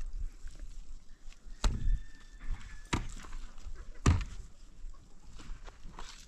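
Three heavy thuds about a second apart, with a faint thin steady tone between the first two.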